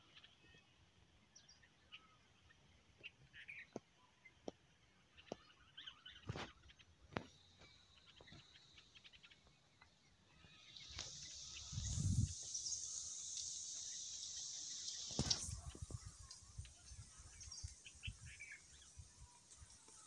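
Small birds chirping in scattered short, high calls. About ten seconds in a steady high hiss comes up and stops sharply about five seconds later, with low rumbles on the microphone around the same time.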